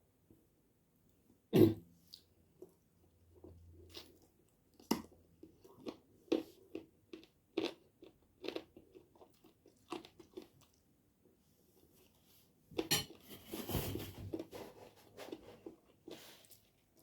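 Close-miked chewing and biting sounds of someone eating, a series of wet clicks and crunches about one a second with a sharp, loud click about a second and a half in. Near the end the sounds turn denser and noisier.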